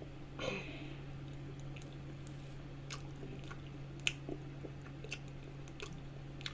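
Close-miked mouth sounds of someone chewing banana: soft wet squishing with scattered sharp lip and tongue clicks, the loudest click about four seconds in. A steady low hum runs underneath.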